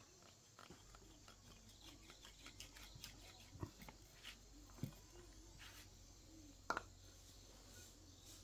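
Near silence with faint scattered clicks and light taps, the sharpest about two-thirds of the way in.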